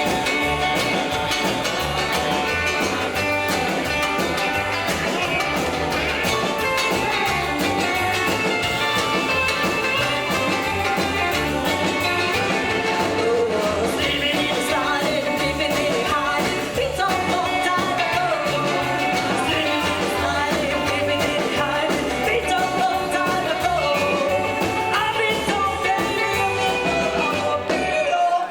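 Live rockabilly band playing a song with a singer, over a steady driving beat.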